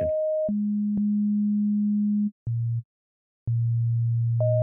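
Ableton Meld synth playing random notes generated by the Bouncy Notes device and held to F minor pentatonic: plain, steady sine-like tones, mostly one at a time, each starting and stopping abruptly with a small click. A mid note gives way to a long lower note, then two short low notes with a gap of silence between, and a higher note overlaps the last one near the end.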